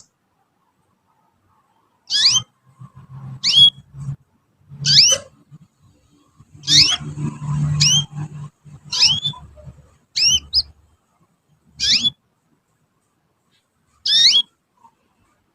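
Young canary giving short, separate chirping call notes, each a quick sweep in pitch, repeated every second or two with a pause near the end. A low hum sounds under some of the calls.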